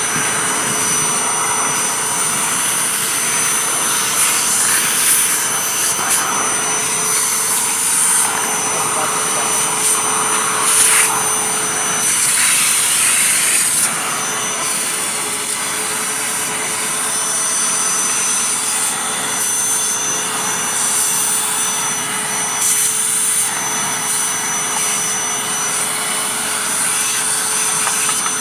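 Hoover vacuum cleaner running with a steady whine, sucking up loose tobacco through an attachment tool; the rushing noise surges briefly a few times as it draws the tobacco in.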